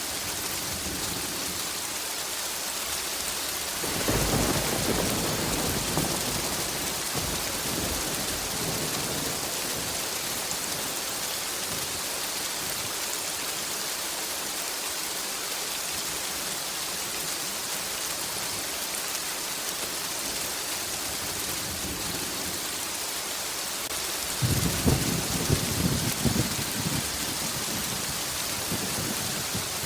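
Steady heavy rain hissing, with two rolls of thunder: one breaks about four seconds in and rumbles away over several seconds, and a second, crackling one comes near the end.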